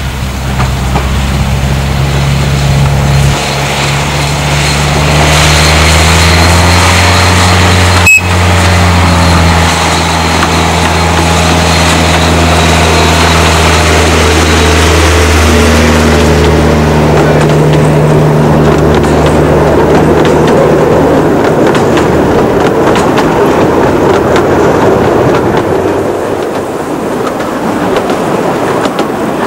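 Miniature railway locomotive's engine running steadily close by, with one sharp click about eight seconds in. After about twenty seconds the engine note fades into an even rushing noise.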